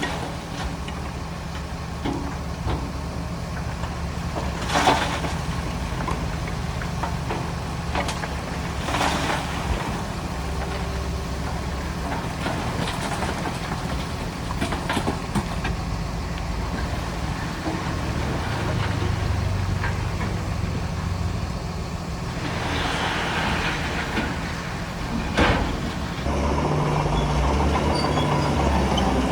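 Heavy diesel earthmoving machinery running steadily, its engine note rising for a few seconds about two-thirds of the way through and again near the end. A few sharp clanks, of the kind stone or steel makes being knocked, come about five seconds in, at nine seconds, and near the end.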